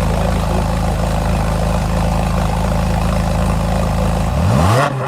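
Straight-piped Ferrari engine idling steadily with a deep, even note, then revved sharply near the end, the pitch climbing quickly.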